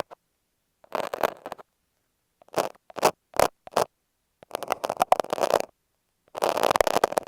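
Utility knife and masking tape rubbed and scraped against an earphone microphone, close and crackly. Separate bursts with silence between: one short scrape, three quick short strokes, then two longer scratching passes.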